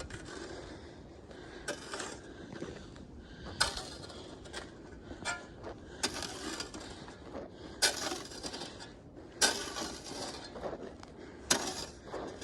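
Slow footsteps crunching through crusted, icy snow, a step every couple of seconds.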